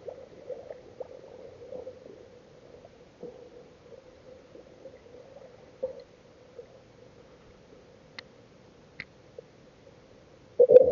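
Muffled water sound, as heard from a camera in or at the water while spearfishing: faint clicks and crackle over a steady hum, with a louder knock and rustle near the end.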